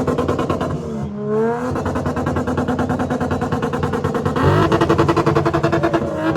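Car engine revved hard through its exhaust and held at high revs with a rapid stuttering pulse. The revs drop and climb again about a second in, dip once more after about four seconds, and fall away at the end.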